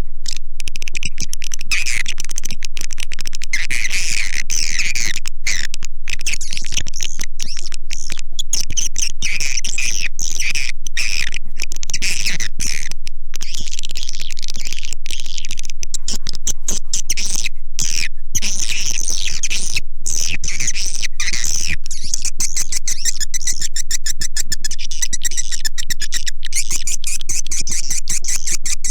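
Recorded swiftlet calls played as a lure sound for swiftlet houses: a loud, unbroken stream of rapid twittering chirps and clicks. About two-thirds of the way through the chirping gives way to a faster, tighter run of clicks.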